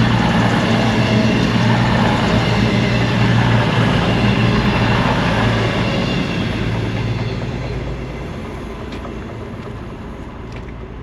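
Train passing on the railway line, running loudly and steadily, then fading away over the last few seconds as it moves off.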